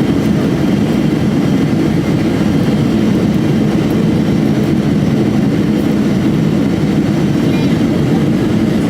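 Steady engine and airflow drone inside the cabin of an Airbus A320, loud and even with no change in pitch.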